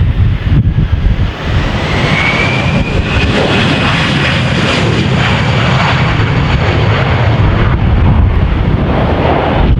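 Jet airliner passing low on approach: a rising engine roar with a high turbine whine that comes in about two seconds in, loudest through the middle, over heavy rumbling wind on the microphone.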